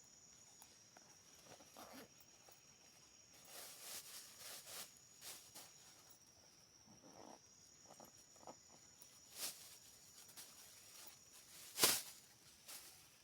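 A steady high-pitched insect trill, cricket- or katydid-like, with scattered rustles and knocks through it and one sharp crack near the end.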